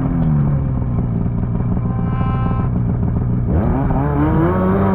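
Two-stroke snowmobile engine letting off, its revs falling away and running low for a few seconds, then revving up sharply about three and a half seconds in and holding high.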